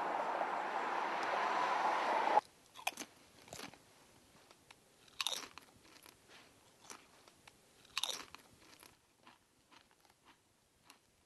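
A steady rushing noise that cuts off suddenly about two and a half seconds in, followed by scattered crunches and small clicks, the loudest a few seconds apart.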